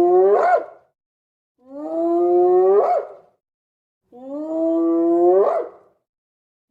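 An animal calling three times: long, steady pitched calls, each ending in a sharp upward rise in pitch, with silent gaps between them.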